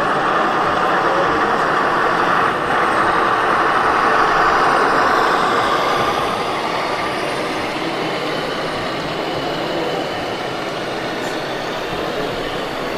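Scale RC truck's sound module playing a diesel truck engine sound through a small speaker, with little deep bass. It is louder in the first half and settles to a steadier, slightly quieter running after about six seconds.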